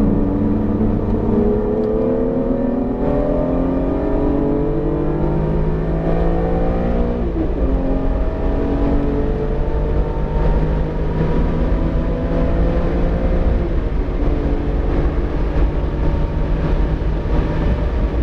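BMW E46 M3's 3.2-litre straight-six accelerating hard, its pitch climbing, dropping quickly at an upshift about seven seconds in, then climbing again more slowly before falling back near the fourteen-second mark. The engine is freshly built and still being run in, held below 7,000 rpm.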